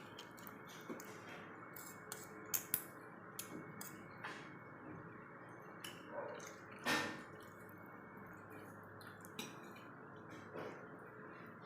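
Eating sounds of a pork mukbang: chewing and mouth sounds with scattered clicks and taps of utensils against dishes, two sharp clicks near the three-second mark and a longer, louder sound about seven seconds in.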